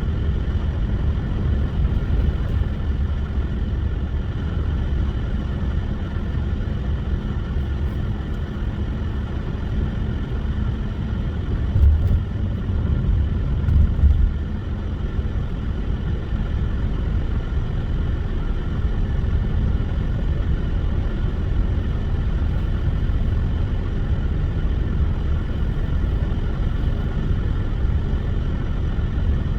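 Car driving on a snowy road: a steady low rumble of engine and tyres, with two brief louder bumps about halfway through.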